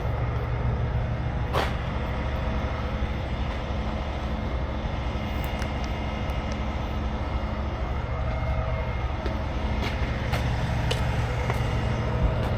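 Heavy truck diesel engine running steadily, a low even drone, with a sharp click about a second and a half in and a few light ticks later.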